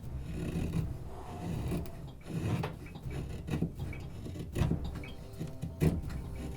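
D2-steel folding knife blade shaving curls off a piece of wood, about five scraping strokes at uneven intervals over a low steady hum.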